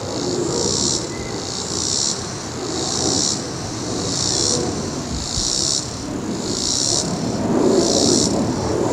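Insects buzzing in a high, pulsing drone, about one pulse a second, over the low rumble of a departing jet airliner that grows louder near the end.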